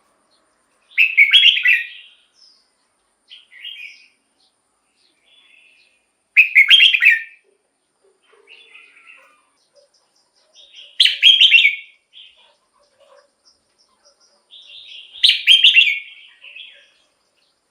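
Red-whiskered bulbul singing: four loud, short song phrases about four to five seconds apart, with softer chirps between them.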